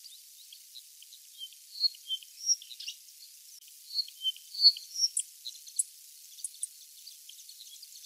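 Short, high bird calls: a handful of loud single notes between about two and five seconds in, over a steady background of quick repeated rising chirps that carries on throughout.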